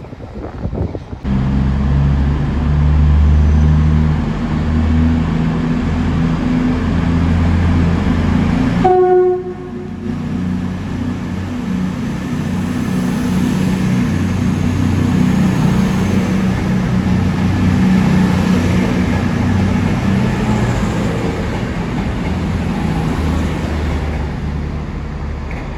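A train's engine running loudly with a deep, steady rumble, and a short horn blast about nine seconds in.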